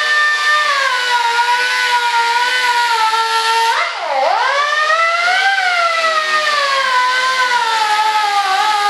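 Dotco pneumatic die grinder whining at high speed, its pitch sagging and recovering as it takes off material from a tight spot. About four seconds in it briefly slows right down and spins back up.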